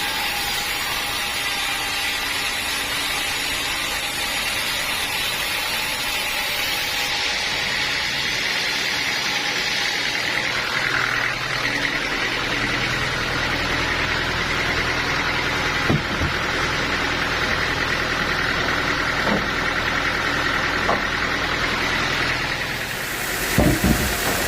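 Sawmill machinery running steadily with engine-like noise. About a third of the way in the high hiss thins out, and a low hum comes in soon after. There are a few short knocks in the second half.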